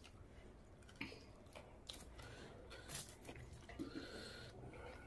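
Faint wet chewing of a mouthful of rice and curry, with a few sharp smacking clicks about once a second, and soft squelches of fingers squeezing curry-soaked rice.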